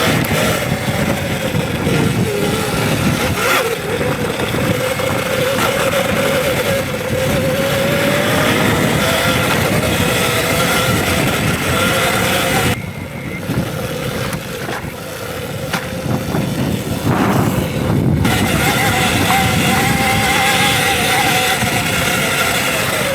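Electric dirt bike riding a trail: the motor's whine wavers up and down in pitch with the throttle over a steady rushing noise. Just past halfway it goes quieter for a few seconds, then picks back up.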